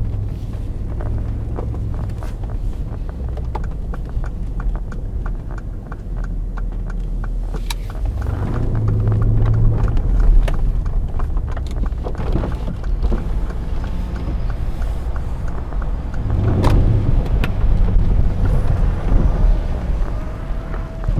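Mercedes-Benz GL 63 AMG's 5.5-litre twin-turbo V8 running as the SUV is driven along, with a steady low rumble that swells louder about eight seconds in and again about sixteen seconds in as it pulls away. Scattered light clicks sound over it.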